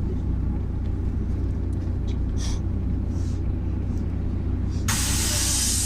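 Steady low rumble of a MAZ-103 city bus heard from inside the cabin while it drives, with a few faint ticks and rattles. About five seconds in a sudden loud hiss of compressed air starts and keeps going.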